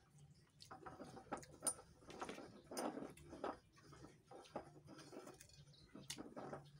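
Close-up eating sounds: soft, irregular chewing and lip-smacking, with small clicks.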